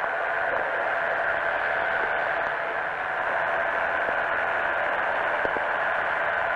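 Steady, static-like drone of a powered parachute in flight, heard through the pilot's headset intercom, with the engine and propeller noise reduced to an even hiss.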